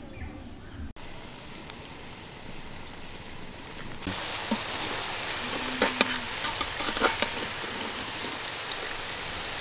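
Potato fries deep-frying in hot oil in a pan: a steady sizzle. A metal spatula stirs them, with several knocks and scrapes against the pan. The sizzle steps up louder about four seconds in, after a quieter hiss.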